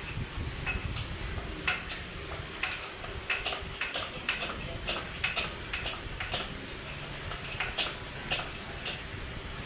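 Irregular sharp metallic clinks and taps, about a dozen strikes spread over several seconds, like hand tools and engine parts being handled during a tractor engine overhaul. A steady low rumble of background noise lies underneath.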